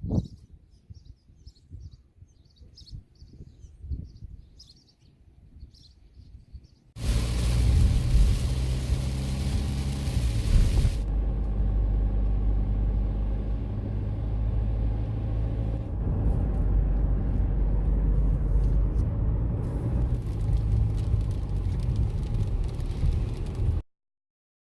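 Faint bird chirps over a low rumble, then about seven seconds in a sudden switch to a loud, steady rushing noise with a heavy low rumble, which cuts off abruptly near the end.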